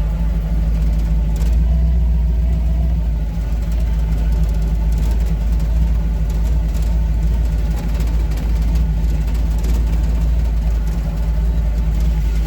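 Rat rod's engine running steadily at low speed while the car is driven, a constant low drone with no change in revs.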